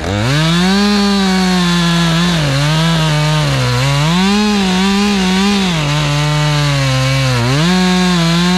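Two-stroke chainsaw at full throttle cutting through a tree trunk, its engine pitch sagging and recovering several times as the chain loads up in the cut. The chain is a little dull and cutting crooked.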